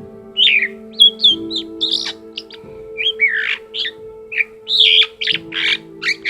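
Male black-collared starling singing a varied, fast song of short sliding whistles mixed with harsher, scratchy notes.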